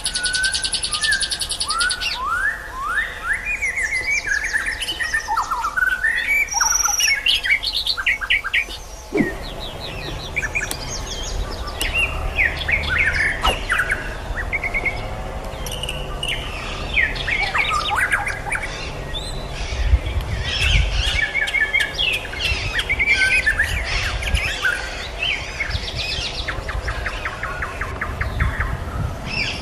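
White-rumped shama (murai batu) and sikatan londo songbirds singing: a fast stream of varied whistles, rising notes, chirps and trills. The song opens with a rapid buzzy trill. About nine seconds in, the background changes suddenly and a low rumble sits under the song.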